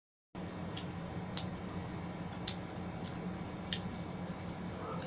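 Eating sounds: about six small, sharp clicks and smacks, spaced irregularly, over a steady low hum. The sound cuts in from dead silence just after the start.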